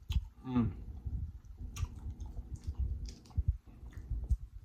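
Close-miked eating sounds: wet chewing and smacking mouth clicks, with a short hummed "mm" about half a second in.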